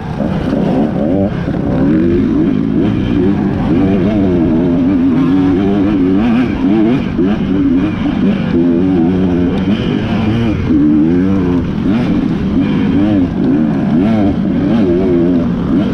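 Several off-road racing motorcycle engines revving hard, their pitch rising and falling over and over as the bikes accelerate and shift through the gears.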